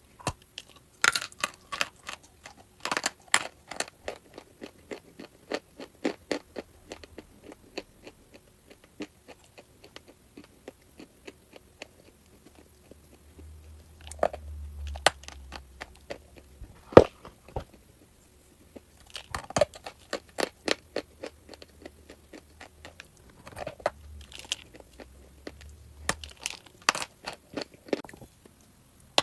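A person biting and chewing crunchy chalk close to the microphone: clusters of sharp crunches with short pauses between them, and a few louder bites.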